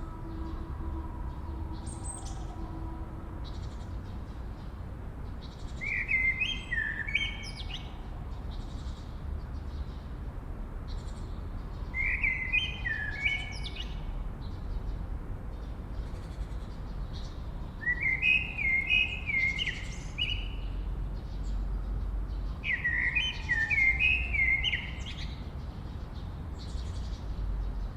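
A songbird singing the same short phrase of quick, stepped whistled notes four times, about six seconds apart, with fainter high chirps from other birds in between over a low background rumble.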